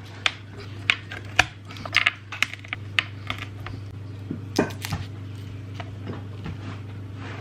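Dishes and cutlery clinking and clattering as food is served, a scatter of sharp clicks and clinks over a steady low hum.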